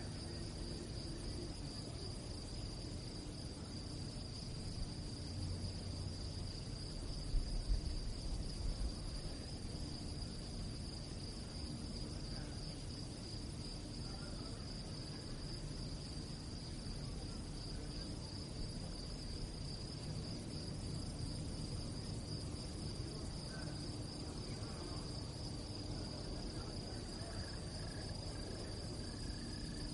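Crickets chirping steadily at night, a continuous high trill over a low background rumble, with a brief low thump about seven seconds in.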